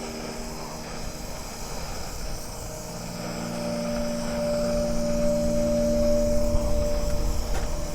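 Wind buffeting the microphone, gustier in the second half, under a steady drone of sustained chord tones that change a few seconds in, like background music.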